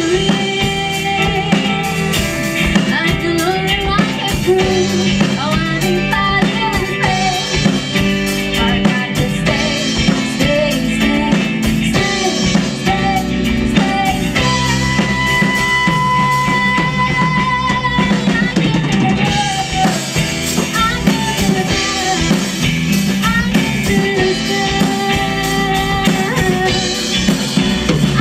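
Live rock band playing: drum kit, electric guitar and bass, with a long held lead note in the middle.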